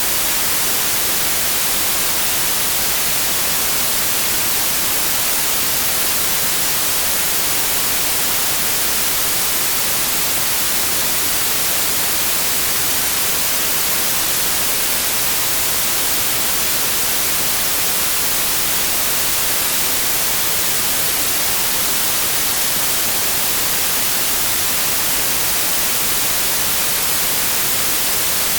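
Steady synthetic white noise: an even hiss, brightest in the treble, with no changes or events.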